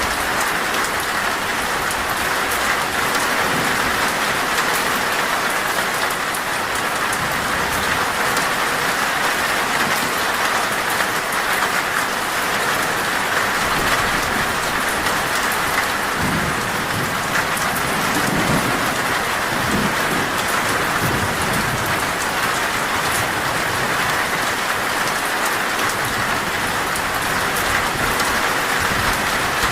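Heavy rain falling steadily on a metal roof, with a low rumble of thunder rolling in a little past halfway through and fading after several seconds.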